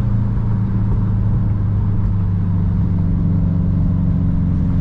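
Car engine running at a steady, low, even drone while cruising, with road noise underneath.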